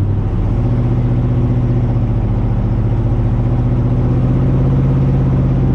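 1954 Chevrolet Bel Air's engine pulling under load while towing a loaded car trailer: a steady drone that rises slightly in pitch about half a second in, then holds.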